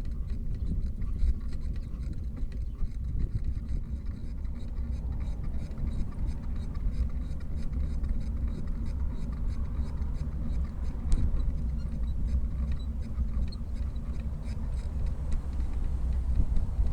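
Steady low rumble of wind and road noise on a camera riding along on a moving bicycle, with faint fine ticking over the top.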